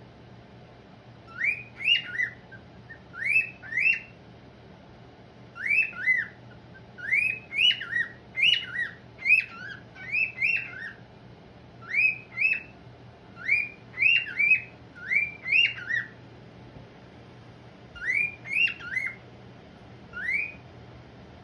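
Pet cockatiel calling: short rising chirps, mostly in twos and threes, repeated over and over with a short pause about two-thirds of the way through.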